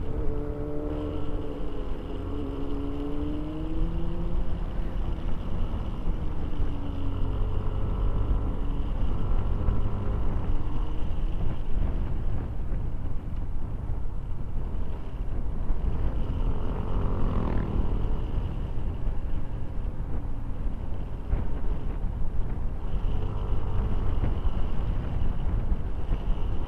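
Motorcycle on the move: a steady low rumble of engine and road, with the engine's pitch rising and falling as the throttle changes, and a quick sharp rise in pitch about two-thirds of the way through.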